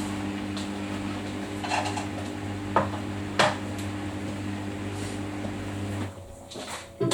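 Samsung washing machine drum turning with a steady motor hum and a few short clanks and clatters from inside the drum. About six seconds in, the motor stops and the drum pauses.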